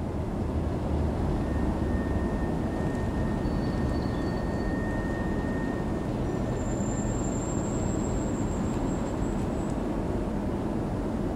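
Queensland Rail electric suburban train running, heard from inside the passenger car: a steady rumble of wheels on track. Faint high steady whines come and go for a few seconds in the middle.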